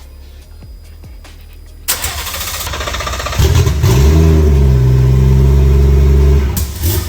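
BMW B58 three-litre turbocharged inline-six petrol engine being started: the starter cranks it for about a second and a half, it catches with a quick flare in revs, then runs at a steady idle for a few seconds before cutting out near the end.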